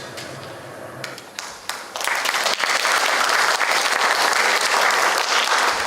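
Audience applauding: a few scattered claps at first, then the applause swells about two seconds in and stays full to the end.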